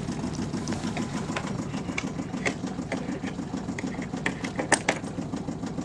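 An engine running steadily with an even low pulsing beat, with scattered light clicks and knocks over it, one sharper knock a little before the end.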